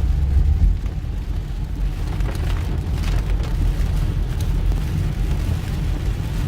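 Car driving through a heavy downpour, heard from inside the cabin: a steady low rumble of the car and road under the noise of rain on the car, with a few faint ticks in the middle.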